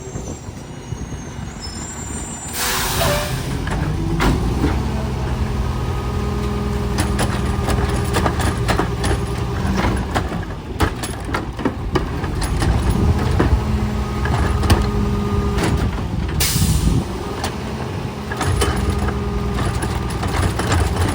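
Garbage truck at work: a hiss of released air about two and a half seconds in and again near sixteen seconds, over the engine running at raised speed, with sharp metal clanks throughout.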